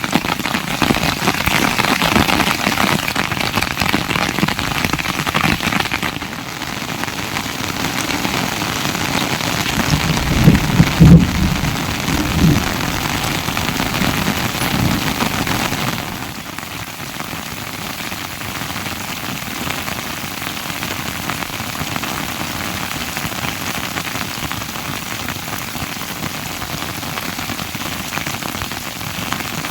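Steady rain falling on surfaces, with a short burst of low thumps about ten seconds in; the rain gets quieter about halfway through.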